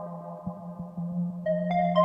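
Ambient synthesizer music from a Roland System 1m running the Promars Plugout: a steady low drone under sustained chord tones that fade away, with faint ticks, and new higher notes coming in about one and a half seconds in.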